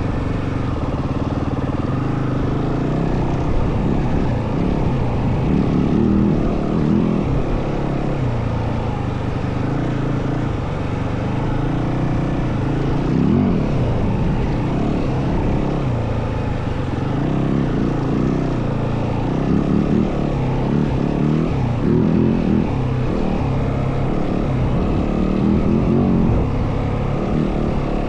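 Yamaha WR450F single-cylinder four-stroke dirt bike engine running while ridden, its pitch rising and falling as the revs change.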